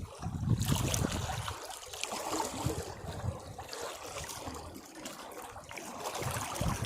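Sea waves washing against rocks: a wave breaks with a low rumble and a hissing, crackling spray, then water trickles and drains off the rocks before the next surge builds near the end.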